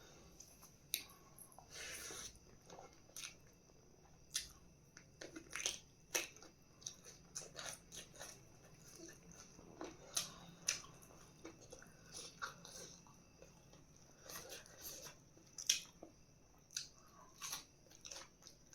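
A person eating close to the microphone: chewing and biting, with irregular short wet mouth clicks and crunches.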